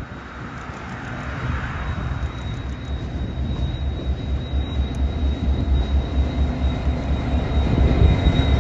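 Diesel locomotive approaching, its low, pulsing engine beat growing steadily louder.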